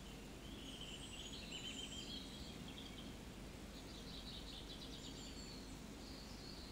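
Faint bird chirps and trills over a low steady hum.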